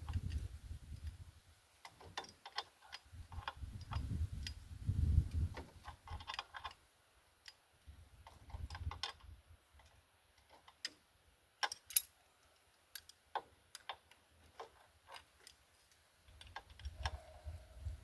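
Hand tools working on a rusty shock absorber mount, heard as scattered sharp metallic clicks and ticks, at times in quick runs, with a few spells of low rumbling handling noise.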